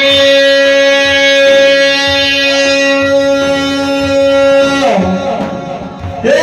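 A solo voice in Islamic devotional chanting (inshad) holds one long, steady note for about five seconds, then breaks off and moves into a new phrase near the end.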